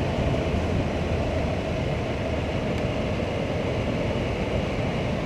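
Triumph motorcycle riding along at a steady pace: an even drone of engine and road noise that holds its level and pitch.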